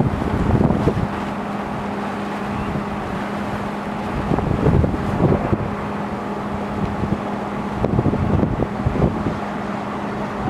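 A steady engine drone with a constant low hum, with wind buffeting the microphone in gusts about a second in, around four to five seconds in and again around eight to nine seconds in.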